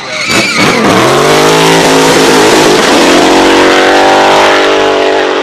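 Drift car's engine revving hard. Short crackles and a dip in the first second, then the pitch climbs and holds high and steady at sustained full throttle.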